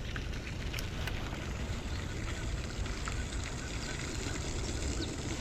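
Wind buffeting the microphone as a steady low rumble, with scattered faint ticks over it.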